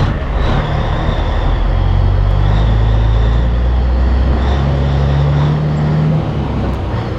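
Heavy diesel truck engine running loud under load as the truck pulls away, its pitch stepping up about two-thirds of the way through, with a faint high whine over it.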